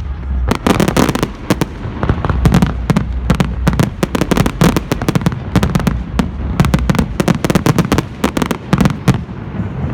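Fireworks going off in a rapid, continuous crackle of many sharp bangs and pops over a low rumble, easing off about nine seconds in.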